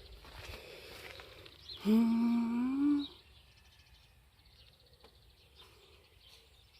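A person humming one note for about a second, rising slightly at the end, over faint outdoor background with light bird chirps.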